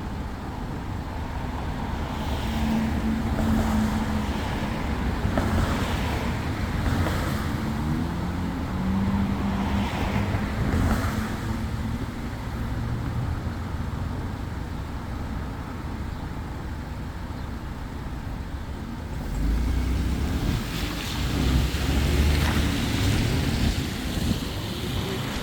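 Vehicle engine and road noise with wind on the microphone. The engine's pitch steps up a few times, and a heavier low rumble comes in near the end.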